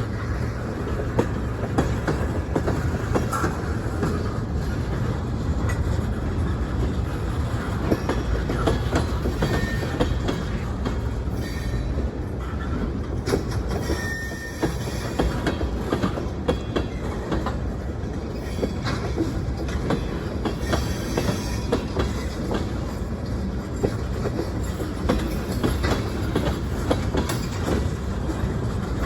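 Freight train rolling past: steady rail noise with the steel wheels clicking over rail joints, and a few brief, faint wheel squeals.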